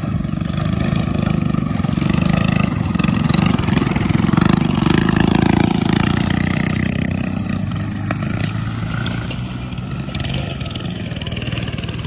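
Small mini bike engines running hard, growing louder to a peak about halfway through and then fading as they pass.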